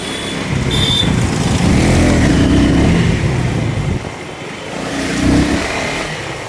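KTM motorcycle running on the road, its engine noise swelling louder for a few seconds and again briefly near the end.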